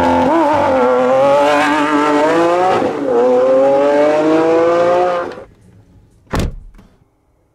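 A car engine revving up and holding high, wavering in pitch, dipping briefly about three seconds in and then climbing again, before cutting off abruptly after about five seconds. A single sharp knock follows.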